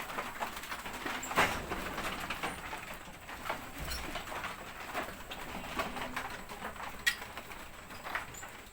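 A bird cooing in short low notes, among scattered sharp clicks and knocks.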